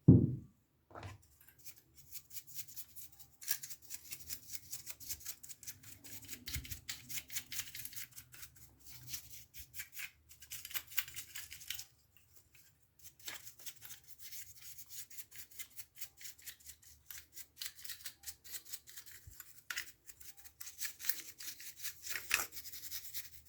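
A metal capacitor clamp being scrubbed by hand to clean off rust, making rapid scratchy rubbing strokes in two long runs with a short pause about halfway through. There is one loud thump at the very start.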